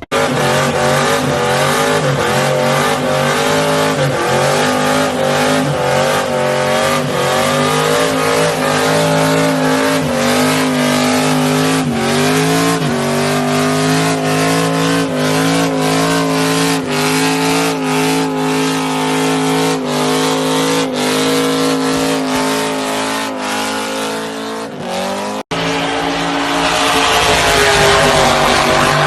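Car engine held at high revs with tyres squealing, its pitch wavering slightly. About 25 seconds in it cuts off abruptly to another high-revving car.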